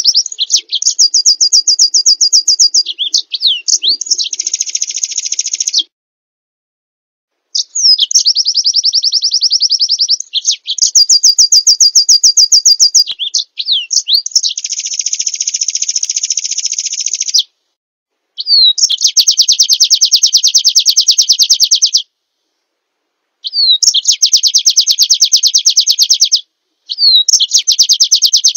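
Small songbird singing loud phrases of very fast, high trills and rattling runs, each a few seconds long, separated by sudden clean silences as in an edited song-training track.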